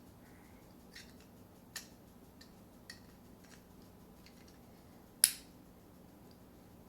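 Hard plastic parts of a toy truck clicking as they are handled: a few faint clicks, then one sharp loud click about five seconds in.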